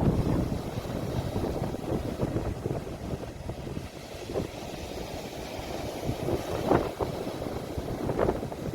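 Sea waves washing, heard through a phone's microphone, with wind rumbling on the microphone.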